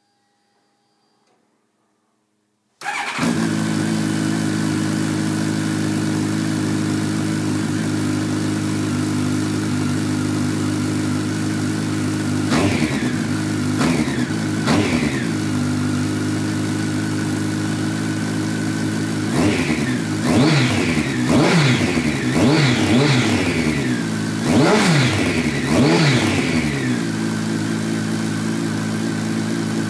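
Honda CBR1100XX inline-four motorcycle engine fitted with Scorpion Oval Carbon slip-on silencers with the dB killers inserted: it starts about three seconds in and idles steadily. Around the middle it is revved three times in short blips, then revved repeatedly in quick succession before dropping back to idle.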